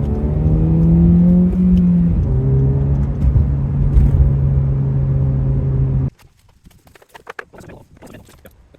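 Car engine running with a steady hum and a brief small rise in revs about a second in. It starts and cuts off abruptly about six seconds in.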